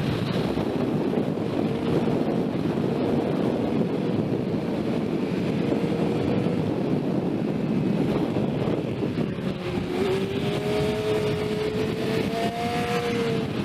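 Sport motorcycle engine running at speed under heavy wind noise on the microphone. In the second half its pitch climbs slowly and steadily as the bike accelerates.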